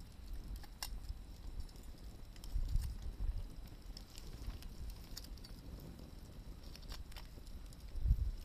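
Wood campfire crackling, with scattered sharp pops every second or two and a few low rumbles.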